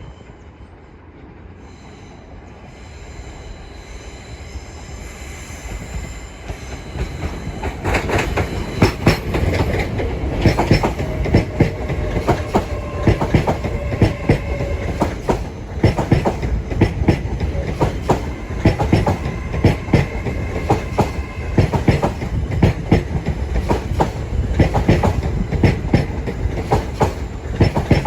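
LNER Class 801 Azuma electric train arriving, growing louder over the first seven or eight seconds. It then rolls past with a steady rumble, many sharp clicks of wheels over rail joints and faint wheel squeal.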